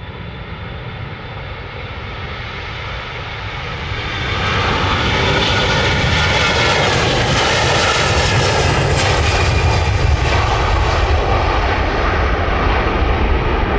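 Jet airliner's engines growing louder as the aircraft passes close, with a sweeping whine in the middle and the loud jet noise holding on afterwards.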